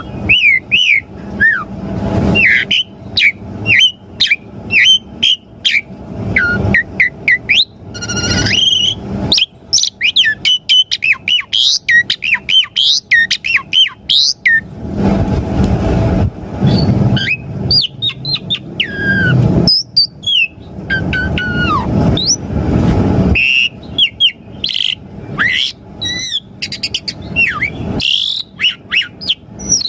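Asian pied starling (jalak suren) singing a long, varied song of whistles, chirps and quick rising and falling notes, broken by stretches of harsher, noisier chatter.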